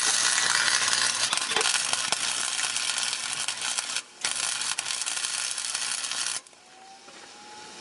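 Electric welder's arc crackling and sizzling while welding a steel exhaust pipe, in two runs: a brief break about four seconds in, then the arc stops about six and a half seconds in.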